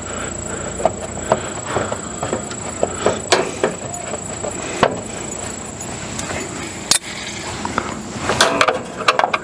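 Scattered clicks and knocks of hand tools, screws and sheet-metal parts being handled while an RV furnace is taken apart, over a steady high-pitched whine.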